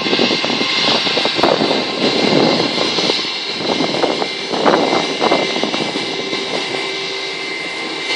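Airplane engines running at high power during takeoff: a loud steady rush with a high whine, and uneven rumbling surges through it.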